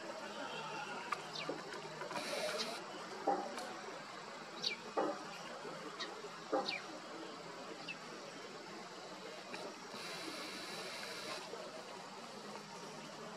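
Outdoor background hiss with a handful of short, downward-sliding bird chirps scattered through the first half. There are a few short knocks in between, and two brief bursts of rushing noise.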